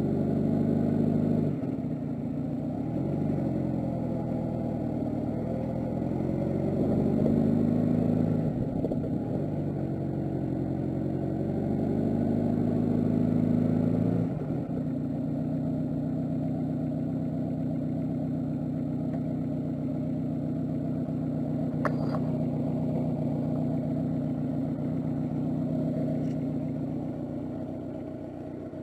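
Honda Gold Wing GL1200's flat-four engine under way: its pitch rises and drops back several times as it accelerates through the gears, then holds steady at a cruise.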